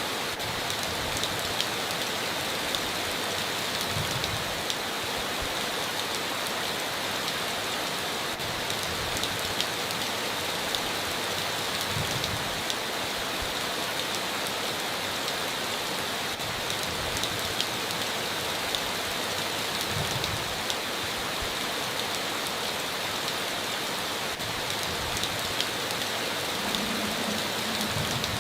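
Steady heavy rain on a tin roof, an even hiss dotted with sharp ticks of single drops, with a few short, soft low thuds along the way.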